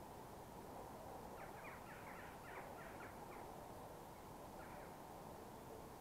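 Faint bird calls: a quick run of short, falling calls about a second and a half in, and a few more scattered later, over a faint steady background hiss.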